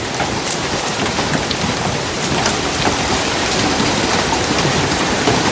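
Heavy hail pounding down with rain: a steady dense clatter of many stones striking the ground and plants, some as big as half-dollar coins.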